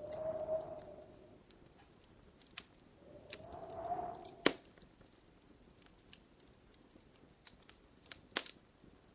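Wood fire in a fireplace crackling, with scattered small pops. Twice a log gives a brief hissing whistle, at the start and again about three seconds in, the second ending in a sharp pop; another loud pop comes near the end.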